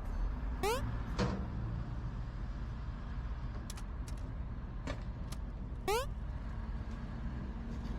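Heavy truck's diesel engine running with a steady low rumble, heard from inside the cab. Two short high squeaks rise in pitch, one about half a second in and one near six seconds, with a few sharp clicks between them.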